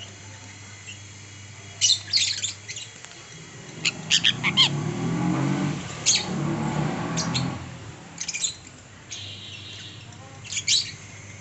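Pet birds giving short, sharp squawks about five times. A low rumbling noise swells up in the middle and dies away again.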